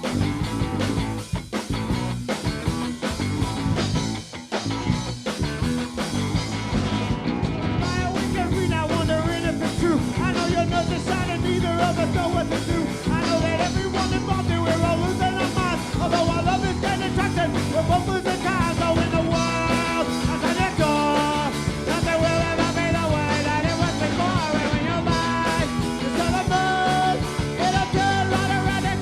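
Live band playing rock music, with a voice singing over it from about eight seconds in.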